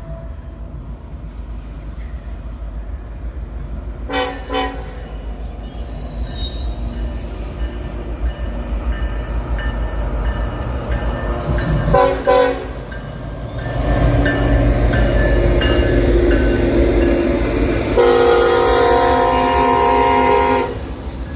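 Diesel freight locomotive approaching and sounding its chime horn: two pairs of short toots about 4 and 12 seconds in, then one long blast near the end. The low rumble of the engine and wheels grows louder through the second half.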